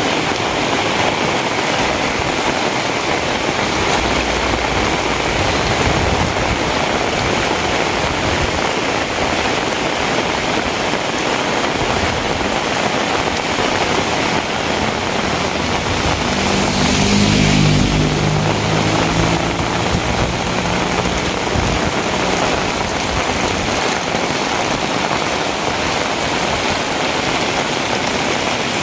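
Heavy rain, a steady dense hiss. About sixteen seconds in an engine hum rises and fades over a few seconds, the loudest moment.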